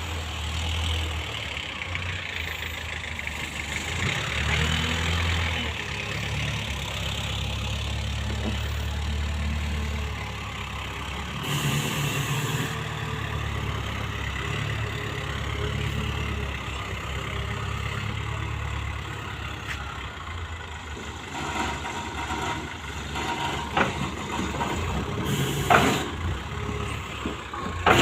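Heavy diesel engine of a vehicle at work in a cassava loading yard, running steadily with its level rising and falling. There are two short hisses, one about halfway and one near the end, and a few sharp knocks in the last few seconds.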